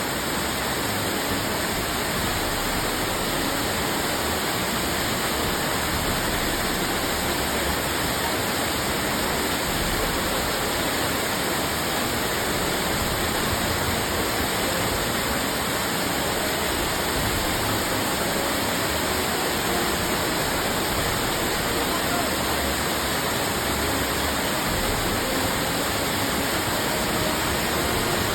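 Waterfall water rushing and crashing in a steady, unbroken roar.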